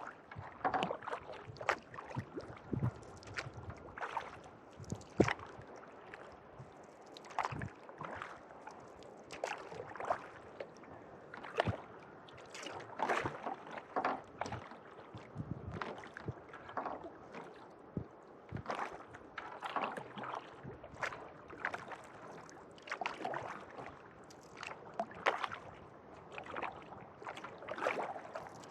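Kayak paddle strokes: the blades dipping and pulling through calm lake water in a steady rhythm, with splashes and drips between strokes.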